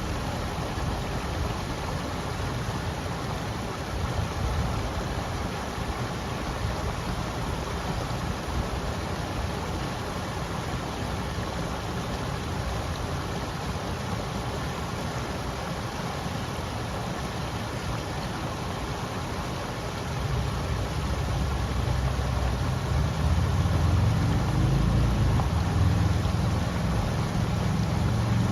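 River water flowing in a steady rush. About two-thirds of the way through, a low engine drone comes in and grows louder.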